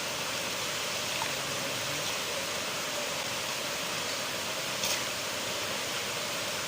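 River water flowing, a steady rushing noise, with one brief sharp tick about five seconds in.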